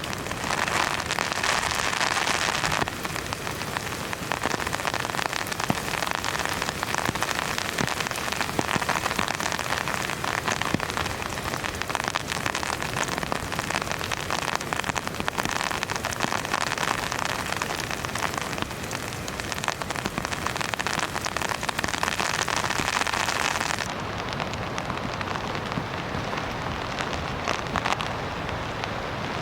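Heavy rain falling steadily on a camping shelter, a dense patter of drops. About 24 seconds in, the sound turns duller as its hiss loses its top.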